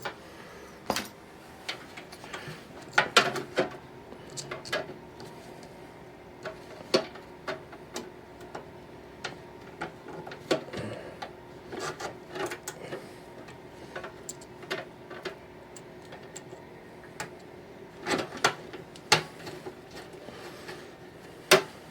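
Scattered light clicks and taps of small metal parts being handled, as screws and the blower motor mount are lined up by hand, over a faint steady hum. The sharpest click comes near the end.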